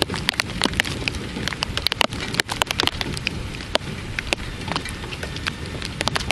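Heavy rain during a thunderstorm, with large raindrops landing close by in irregular sharp taps over a steady low rumble.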